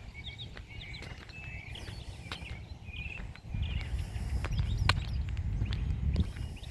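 Songbirds chirping and calling in many short, quick notes. About halfway through, a louder low rumble comes in for a few seconds.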